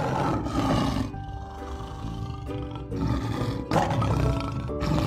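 Lion roaring twice, once at the start and again about three and a half seconds in, over background music.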